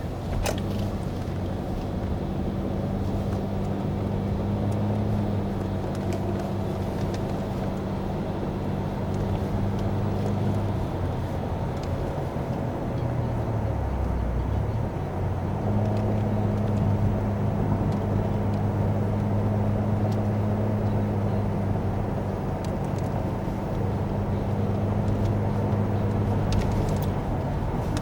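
A steady low engine hum, as from a running motor vehicle. It fades and drops in pitch for a few seconds around the middle, then comes back steady.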